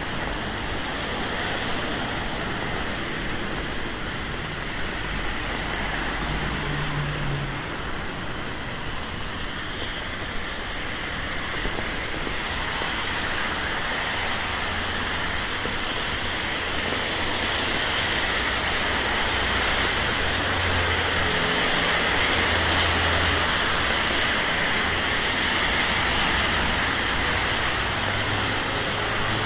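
Rainy city street traffic: a steady hiss of rain and tyres on wet road, with vehicle engines passing now and then. It grows louder about halfway through.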